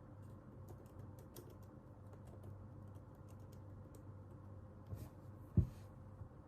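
Computer keyboard being typed on: a run of light, irregular keystrokes that stops a little past the middle, then a single dull thump near the end, the loudest sound, over a faint steady hum.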